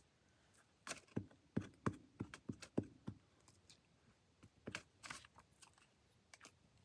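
Quiet handling of small paper pieces during gluing: a run of light clicks and taps with a brief paper rustle about five seconds in.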